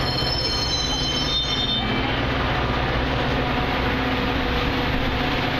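Metra commuter train at the station, with thin high squealing from its wheels and brakes for the first two seconds over a loud, steady rumble.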